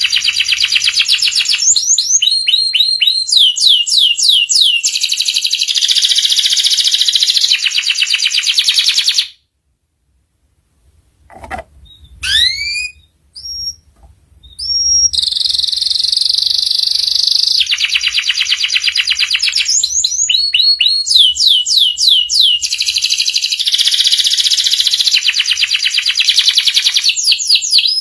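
Canary singing fast rolling trills and quick runs of repeated high notes. About nine seconds in the song breaks off for a couple of seconds, then a few separate rising whistled notes come before the trilling resumes.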